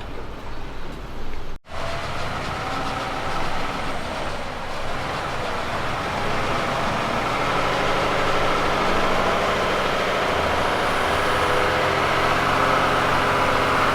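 Kenworth K200 road train's diesel engine running steadily, growing louder over several seconds as the truck comes closer. A sudden cut about a second and a half in breaks off the sound before it.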